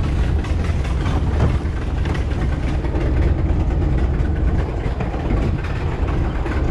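Jeep CJ7's engine running at low speed, a steady low engine note.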